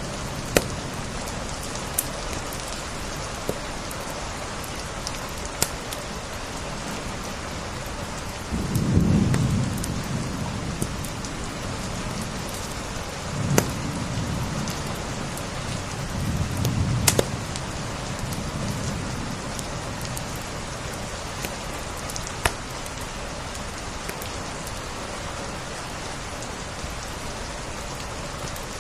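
Steady rain with the scattered sharp pops of a crackling wood fire. Three low rumbles swell and fade about nine, fourteen and seventeen seconds in.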